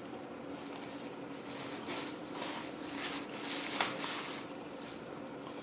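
Soft rustling, scraping and a sharp click of someone eating from a takeout bowl, over a steady low hum.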